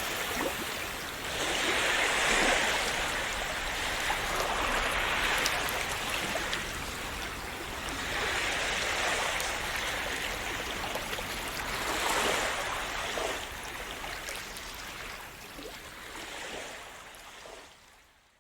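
Sea waves washing in. Each wave swells and ebbs, with a new surge every few seconds, and the sound fades out near the end.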